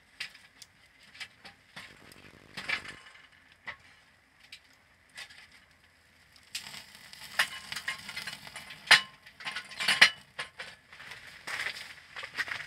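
Hard parts of camping gear clicking, clinking and knocking as they are handled and fitted together by hand: scattered clicks at first, then a busier stretch of clatter and rustling from about halfway, with a couple of sharper knocks.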